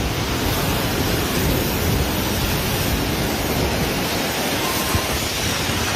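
Strong wind of a dust storm blowing over the microphone: a steady, unbroken rushing noise.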